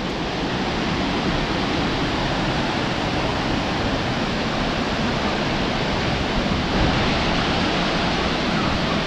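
Shifen Waterfall's water falling into its plunge pool: a steady, even rush of noise that does not change.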